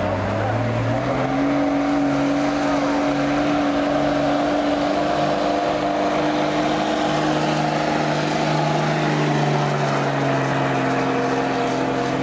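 Diesel truck engine held at full throttle during a pull. Its note rises about a second in, holds nearly steady for about eleven seconds, then cuts off sharply.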